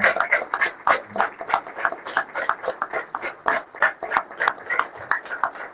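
Small audience applauding, the individual hand claps distinct and uneven.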